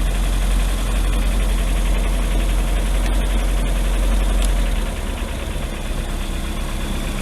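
MerCruiser 3.0-litre four-cylinder sterndrive engine idling while it warms up, its electric choke still partly closed and opening. The low rumble drops a little about five seconds in.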